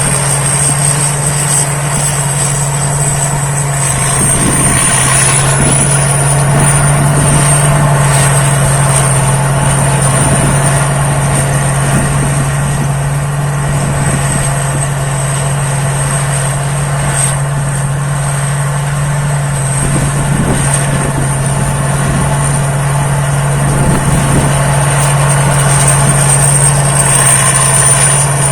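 Thai Seng Yont rice combine harvester running steadily while harvesting: a constant engine hum with a steady high whine above it that drifts slightly in pitch.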